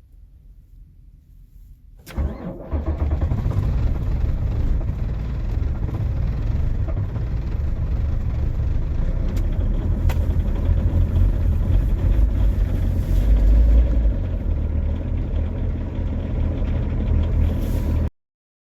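Diesel engine cold-started in severe frost, with the cold-start idle knob pulled. It fires about two seconds in, catching almost at once, and then runs loudly and steadily at a raised cold idle.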